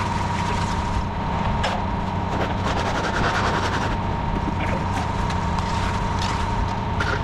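Diesel engine of heavy construction equipment running steadily, with a constant high-pitched whine over it and a couple of short metallic knocks.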